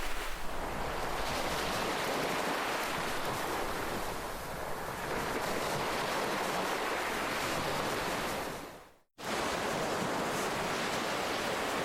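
Ocean waves washing in a steady dense rush that swells and eases slowly. About nine seconds in the sound fades quickly to silence and then cuts straight back in, an edit in the recording.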